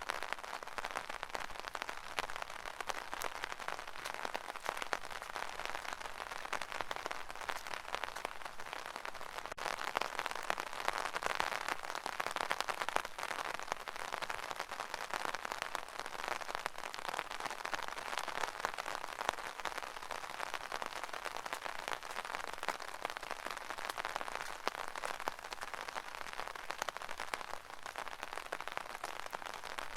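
Steady rain pattering on an umbrella canopy: a dense, even crackle of countless drops.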